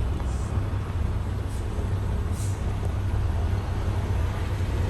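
Tractor-trailer's diesel engine running with a steady low rumble, with two brief faint hisses about one and a half and two and a half seconds in.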